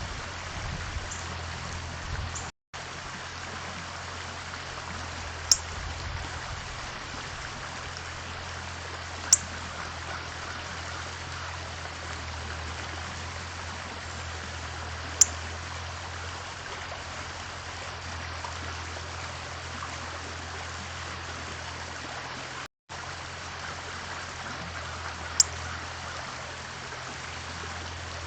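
Steady rushing noise like running water over a low hum, broken four times by a single short, high chip call from a small bird. The sound cuts out completely for a moment twice.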